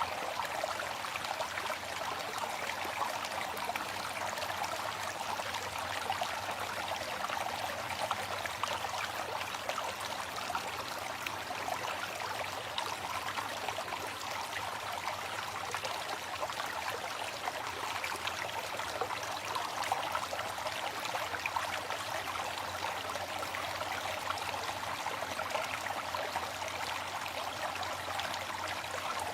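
Steady rush of falling and splashing water from a waterfall, an even continuous noise with no pauses.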